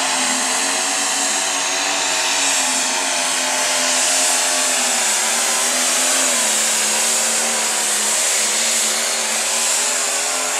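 Light pro stock pulling tractor's turbocharged diesel engine running at high RPM under full load as it pulls the sled, a steady drone whose pitch sags slightly about six seconds in.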